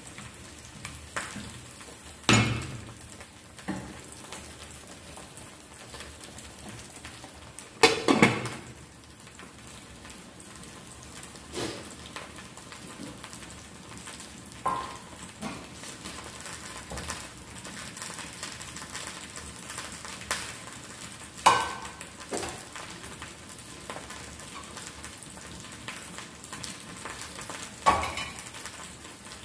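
Food frying in oil in a pan, sizzling steadily, while a spoon stirs it and knocks against the pan now and then with several sharp clangs.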